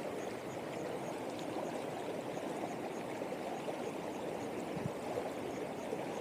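Steady rush of flowing water, with a faint high ticking about four times a second.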